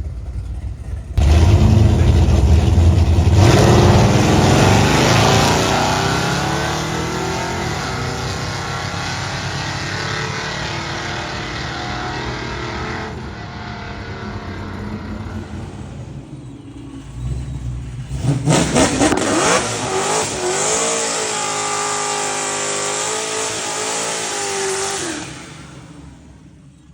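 Street-driven drag cars making passes: a car's engine comes in suddenly and loud, its pitch climbing as it accelerates, then fades. Later a second engine run rises loud with its pitch rising and falling, and drops away near the end.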